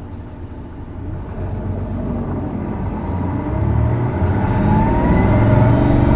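Isuzu Erga city bus's diesel engine heard from inside the cabin, accelerating hard, with its pitch and loudness climbing from about a second in. The engine makes the characteristic odd noise this particular bus is known for.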